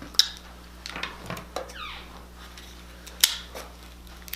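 Crab shell being broken and picked apart by hand: scattered small clicks and crackles, with two sharp snaps, one just after the start and one about three seconds in.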